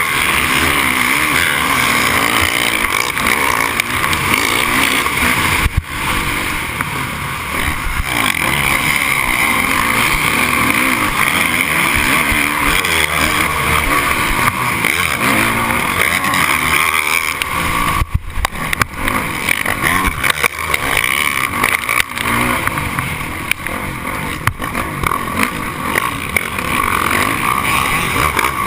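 Motocross dirt bike engines racing around the track, revving up and down continuously as the bikes accelerate and shift.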